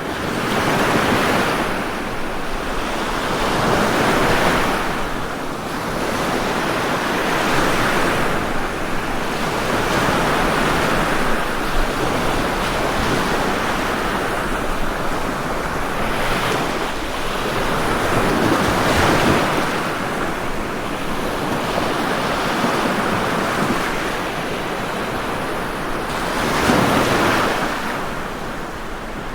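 Ocean waves washing ashore in continuous surf, swelling and ebbing every few seconds.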